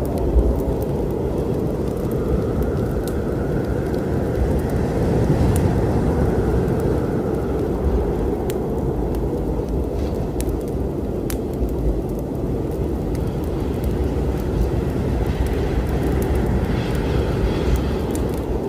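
Steady low storm rumble with the scattered sharp crackles and pops of a wood-burning fire over it.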